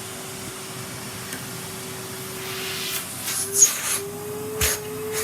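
Numatic Henry canister vacuum cleaner running at full suction, its unblocked hose sucking up debris with a rising hiss and sharp clatters. The steady motor whine steps up a little in pitch about three seconds in.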